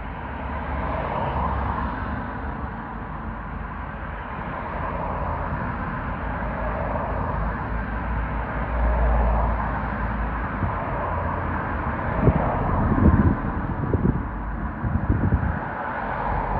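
A train running past on the line, a steady rushing noise. In the last few seconds, irregular low gusts buffet the microphone.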